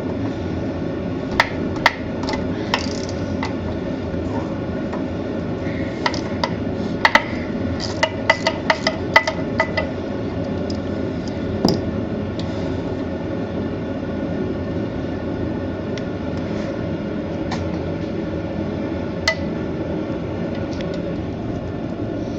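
Hand tools clinking and tapping against metal engine parts, a series of sharp clinks with short rings in the first half and one more near the end, over a steady background noise.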